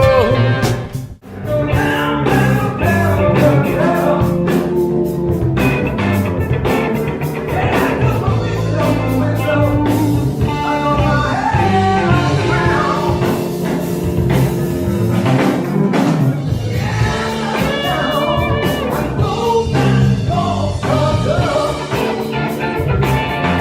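Live blues-rock band with a singer, guitar and drum kit. The sound drops out briefly about a second in, then the song carries on.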